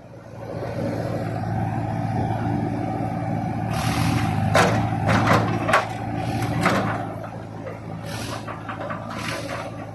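Tractor's diesel engine running steadily, with several short hissing bursts near the middle and toward the end.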